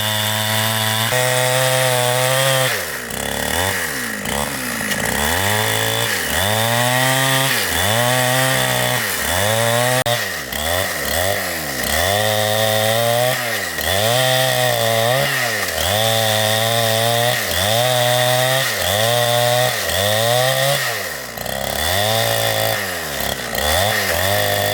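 Chainsaw cutting wood, its engine note dipping and climbing back up again and again, about every second and a half, as the saw works in the cut.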